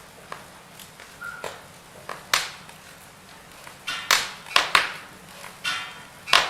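Firewood burning: wood crackling, with sharp irregular pops and snaps over a faint hiss. The louder pops come in clusters in the second half, and some carry a brief high whistle.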